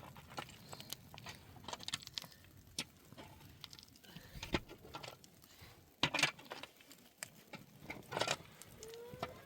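Scattered light clicks and knocks at an irregular pace, with a louder cluster about six seconds in and another about eight seconds in.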